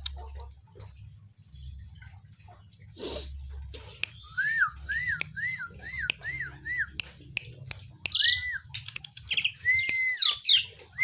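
Asian pied starling (jalak suren) singing: a quick run of six rising-and-falling whistles, then longer whistled notes mixed with harsh high chattering near the end, with sharp clicks in between.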